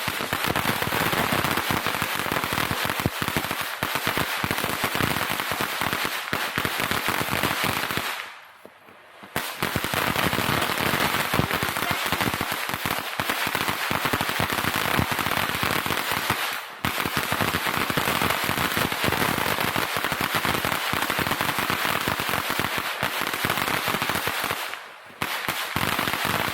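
Consumer fireworks crackling: a dense, rapid string of sharp pops that runs on in long stretches, broken by short lulls about 8 seconds in and again near the end.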